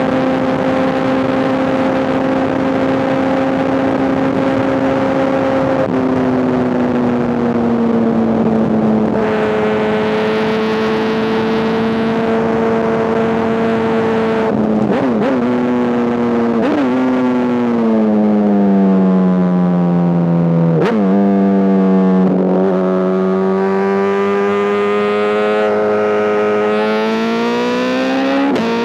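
2005 Honda CBR1000RR inline-four with an SC-Project exhaust, running at high revs and then dropping in pitch in two steps as it shifts up. Through the middle the revs fall as it slows, with several quick dips and blips at the gear changes, and near the end the revs climb again under acceleration.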